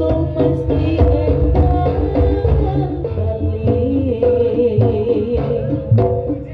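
Live jaranan (kuda lumping) accompaniment music: hand drums beating a busy rhythm under a melodic instrument line.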